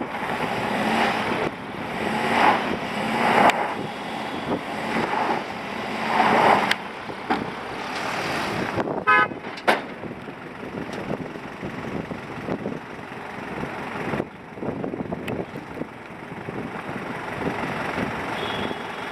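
Truck engines revving hard in repeated surges under load as a stuck recovery truck is pulled free, then running more evenly; a short horn toot about nine seconds in.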